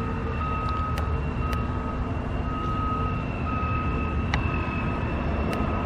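A construction vehicle's backup alarm beeping steadily about once a second over the rumble of its running diesel engine. A few sharp ticks sound now and then.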